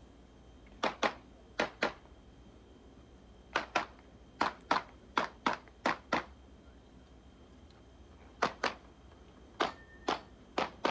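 Glock 19 9mm pistol firing a fast string of shots, mostly in quick pairs about a quarter second apart: double-taps on each target.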